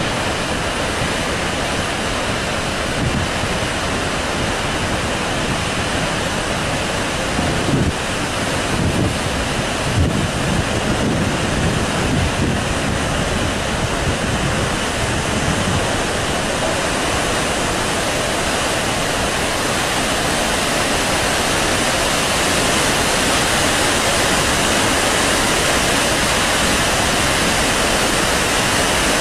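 Heavy water discharge from Tarbela Dam rushing steadily, the dam releasing high flows after heavy rain. Wind buffets the microphone with low gusts from about 8 to 16 seconds in.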